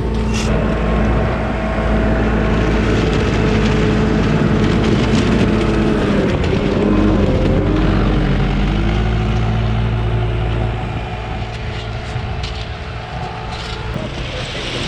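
Engine of heavy track-repair machinery running under load, its pitch wavering up and down midway, then easing to a lower, quieter note about ten seconds in.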